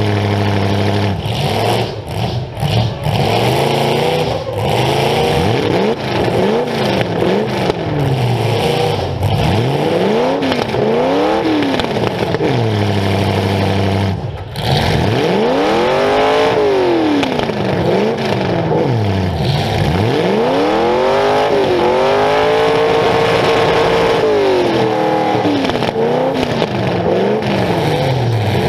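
Demolition derby car's engine revved up and down again and again, the pitch rising and falling every second or two. It drops out briefly about halfway through, then holds high for several seconds.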